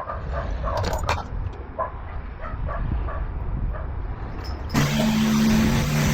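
Automatic car wash heard from inside a car: a steady low rumble with a few short high squeaks. About five seconds in, a loud hiss of spraying water starts, with a steady machine hum under it.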